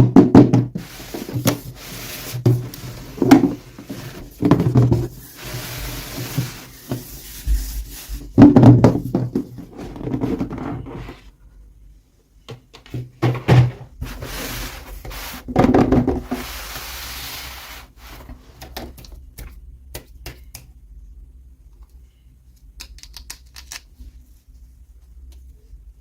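Hands handling and opening toy packaging: knocks, rubbing and clicking. The handling is busiest for the first ten seconds or so and comes again twice around the middle, then thins to faint scattered clicks.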